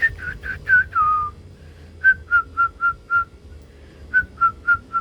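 A person whistling a call to a pet canary: short, clear, repeated notes in three runs. The first run of four quick notes ends in a longer falling note about a second in, then come two runs of four or five evenly spaced notes with pauses between them.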